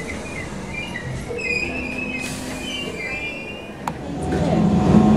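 Class 313 electric multiple unit rolling slowly through a station with intermittent high squealing from its wheels and brakes and a short hiss. From about four seconds in, a louder sound with wavering tones builds.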